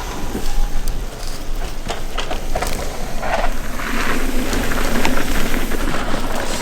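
Crunching, crackling noise of bike tyres rolling over a rocky dirt trail as a rider comes through, growing slowly louder.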